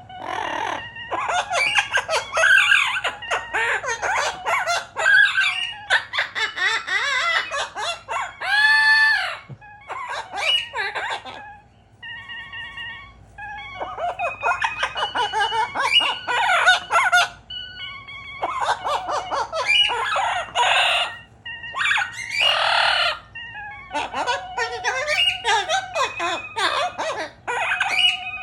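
Amazon parrot calling loudly and busily in long runs of squawks, whistles and chatter, with one long rising-and-falling squawk about nine seconds in. Between the calls, short steady electronic notes from an Artiphon Orba 2 synth play.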